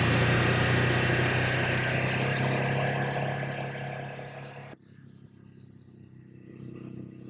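Ducati Hypermotard's V-twin engine running at a steady pitch, with wind noise, slowly fading and then cut off suddenly a little over four and a half seconds in, leaving a faint background.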